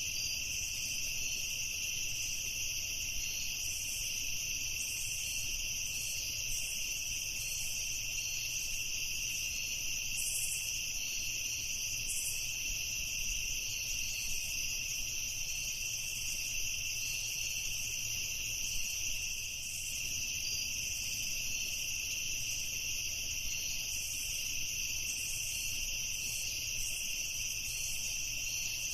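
Crickets trilling steadily in a continuous chorus at two high pitches, with faster flickering chirps above them.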